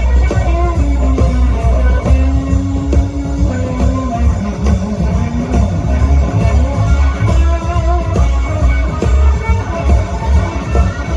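Live blues band playing: an electric guitar lead line with held, bending notes over bass and drums.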